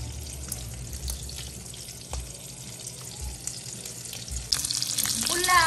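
Hot oil crackling and sizzling as food fries in a pan. It is faint and sparse at first, then louder and hissier from about four and a half seconds in.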